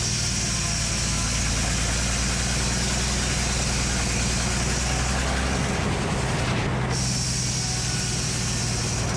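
Engine driving the Frick circular sawmill, running steadily, with a brief change in its sound about six seconds in.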